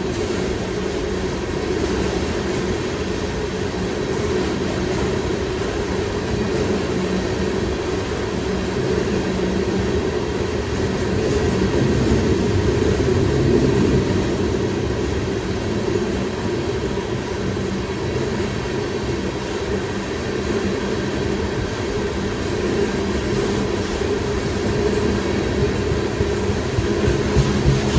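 New York and Atlantic freight train rolling past, its cars giving a steady rumble of wheels on rail. Sharper wheel clicks over the rail joints come near the end.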